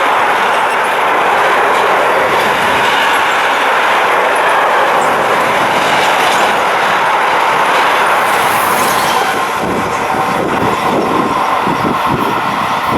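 Freight train running past at speed: a loud, steady rush of wagon wheels on the rails with clickety-clack. In the last few seconds it eases slightly and separate wheel thumps come through.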